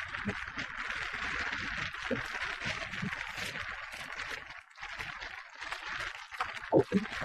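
Bicycle riding noise: a steady rattling hiss that drops away briefly about four and a half seconds in.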